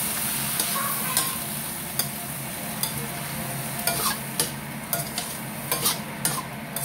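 Shrimp, long beans and squash sizzling in a stainless steel wok while being stirred with a spatula, which scrapes and clicks against the pan, the clicks coming more often in the second half.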